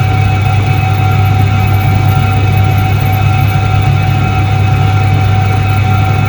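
Soviet ISET-3 washing machine (1978) running, its electric motor giving a loud steady low hum with a faint whine above it, unchanging throughout.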